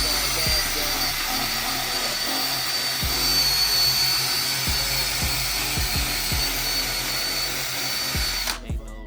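Power drill running steadily while sanding a plastic headlight lens, a high whine over a hiss, cutting off suddenly near the end. Hip hop music with a bass beat plays underneath.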